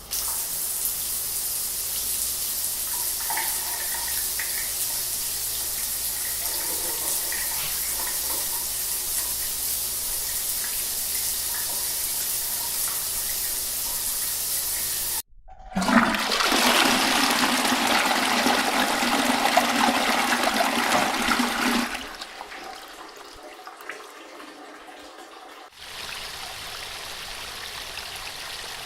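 A shower runs with a steady hiss, then about fifteen seconds in it cuts off and a toilet flushes, a loud rush of water for about six seconds that dies away into the refill. Near the end a small waterfall starts with a steady, quieter rush.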